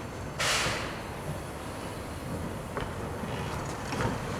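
Standing locomotives running with a steady low rumble, and a short, sharp hiss about half a second in, followed by a couple of faint metallic clicks.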